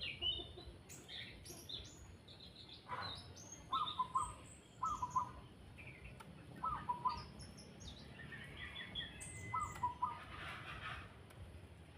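Chestnut-capped thrush (anis kembang) singing in short, varied phrases of chirps and whistles, some very high; a quick clustered note group recurs about four times.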